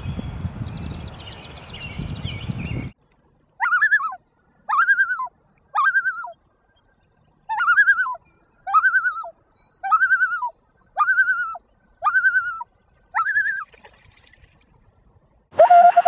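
Common loon calling: nine separate wavering notes, each rising then falling, about a second apart. Before the calls, about three seconds of outdoor wind and rustling noise cut off suddenly.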